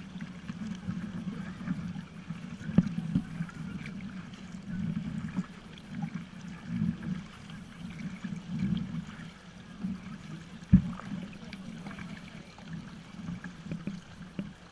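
Water sloshing and gurgling around kayaks, with a sharp knock about three seconds in and a louder one near eleven seconds in.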